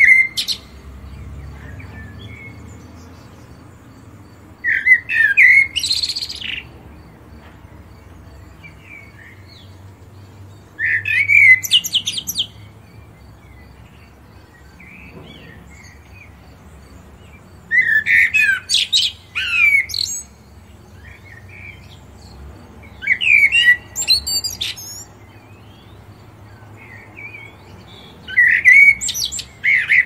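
A songbird singing the same short phrase five times, about every five to six seconds. Each phrase opens with a few lower whistled notes and runs into quick, higher twittering.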